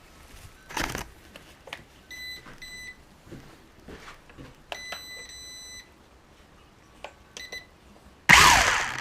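A few short electronic beeps, then a longer beep of about a second, with light clicks between them; near the end comes a loud, brief rush of noise.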